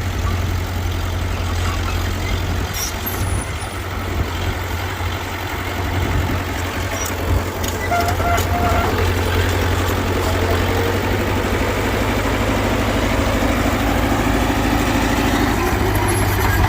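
Diesel engine of heavy earthmoving machinery running steadily as a deep rumble, getting somewhat louder about eight seconds in.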